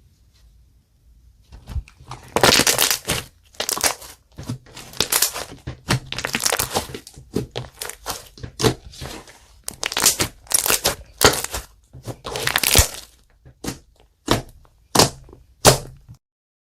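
Clear slime mixed with makeup being squeezed, pressed and stretched by hand, giving an irregular run of short crackling pops and squishes.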